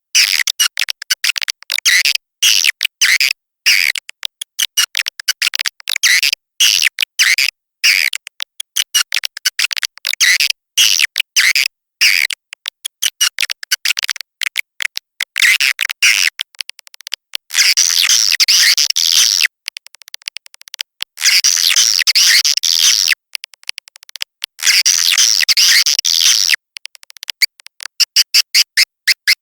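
Swiftlet lure call (SP) recording: edible-nest swiftlet twittering, with rapid clicking chirps in short stretches broken by brief gaps. In the second half come longer unbroken trills, and near the end evenly spaced ticks.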